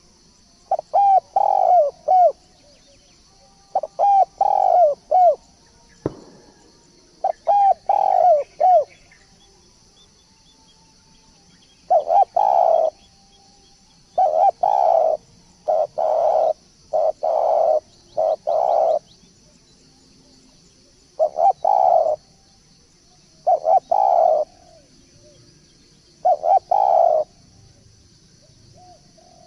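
Spotted dove (tekukur) cooing over and over, each phrase a quick run of several short coos, repeated every two to three seconds, as a lure call for doves. A steady high hiss runs underneath.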